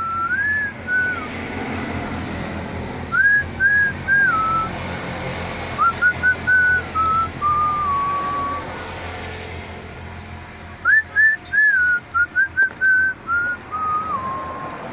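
A person whistling a tune in several short phrases of quick notes and held notes, over steady background noise.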